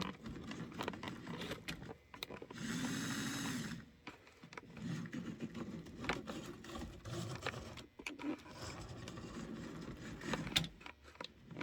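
Small electric motor of a Fleischmann HO-scale Alco diesel model locomotive running briefly about three seconds in, its pitch rising and then falling, among scattered clicks and scrapes from handling the model. The owner thinks the motor may need a deep cleaning inside.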